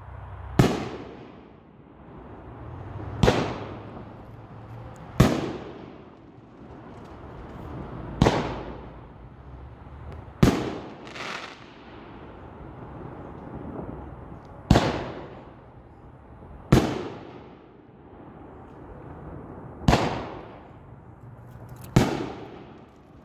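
Pyro Demon 'Firestorm' nine-shot firework cake firing. Loud sharp bangs come every two to three seconds, about nine in all, each dying away, with a low rumble between them.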